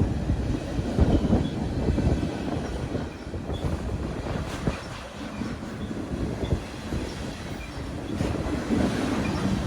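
A train rolling past, its wheels rumbling and clattering over the rails, louder near the start and again near the end.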